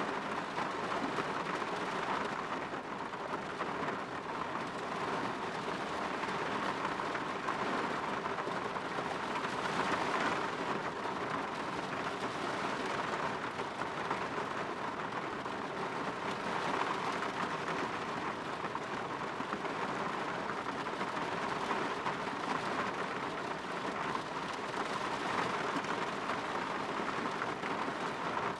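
Steady rain falling on a window, a continuous even hiss that swells and eases slightly every several seconds.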